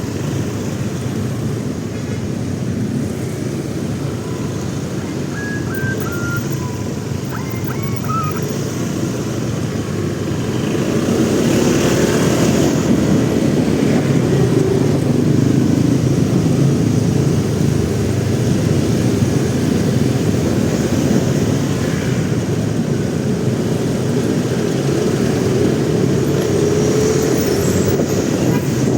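Motorcycle riding through city traffic: steady engine, road and wind noise, growing louder about eleven seconds in.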